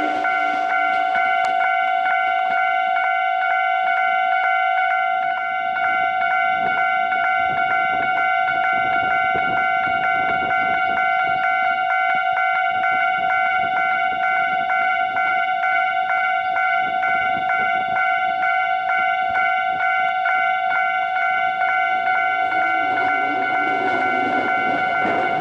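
A railway warning bell or alarm ringing steadily on one high pitch. Train rumble fades out early on and builds again near the end.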